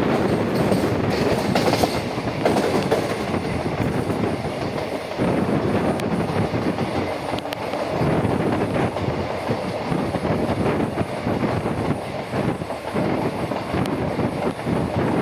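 Passenger express train running at speed, heard from an open coach doorway: a steady rumble of the coaches with the wheels clacking over the rail joints.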